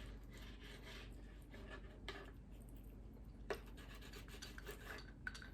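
Faint scraping of cutlery on a plate while cutting into a sunny-side-up egg, with a single sharp clink about three and a half seconds in.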